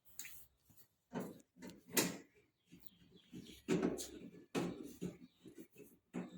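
Irregular knocks, clicks and clatter of hard objects being handled, about ten scattered hits with the loudest about two seconds in and again near four and a half seconds.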